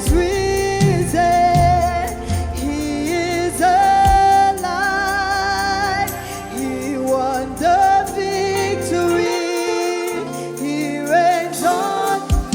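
Live gospel praise-and-worship music: singers holding long, wavering notes over a band with a steady bass line. The bass drops out briefly about nine seconds in.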